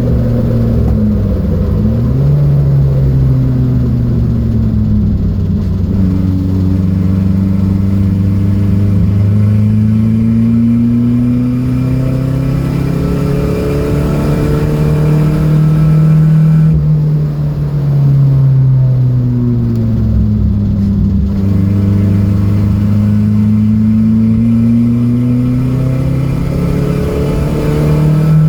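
Datsun B210 race car's engine under load on track. It drops briefly about a second in, climbs slowly and steadily in revs for most of a long straight, falls off for several seconds past the middle, then pulls up through the revs again, over a steady rush of wind and road noise.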